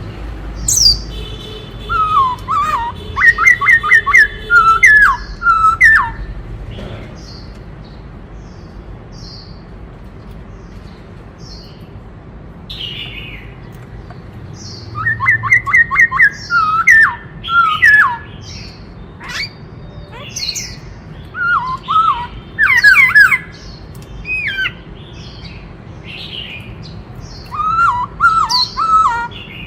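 Black-throated laughingthrush singing: loud bursts of quick whistled notes that sweep up and down, with soft chips and pauses between the bursts. There are about four bursts.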